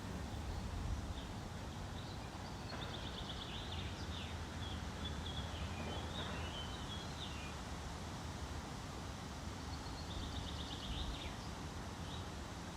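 Small birds singing in two bouts of quick, chattering high notes, the second shorter, over a steady low outdoor rumble.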